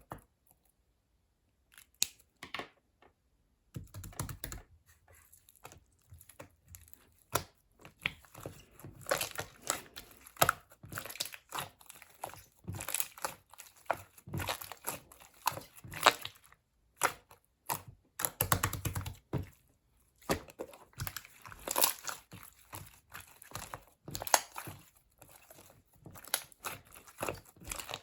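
Crinkly material being handled and torn, with many irregular light clicks and taps. It starts sparse and becomes nearly continuous after about four seconds.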